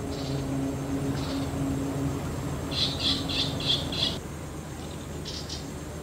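A container ship's whistle blast has just cut off, and its low tone lingers faintly and dies away over about two seconds. About three seconds in, a bird calls in a quick run of about five high chirps, then gives two more briefly near the end.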